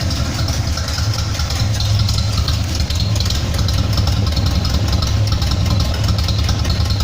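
Engine idling through a homemade split exhaust, the Y-pipe cut and routed out to both sides, giving a steady low exhaust note. It runs fairly quietly.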